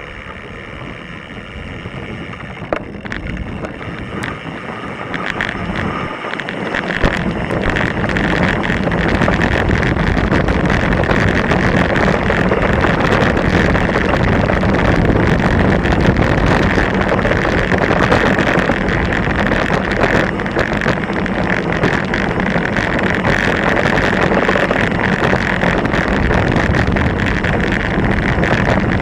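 Mountain bike riding down a rocky, loose trail: wind buffeting the action camera's microphone, with tyres over stones and many quick clicks and rattles from the bike. The noise builds over the first several seconds as speed picks up, then stays loud.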